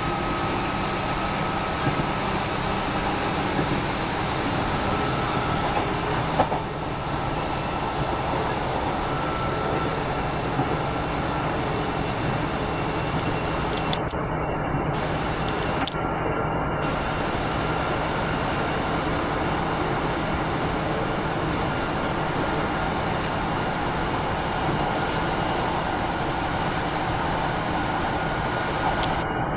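Steady running noise heard inside a moving diesel passenger train, with a single short knock about six seconds in.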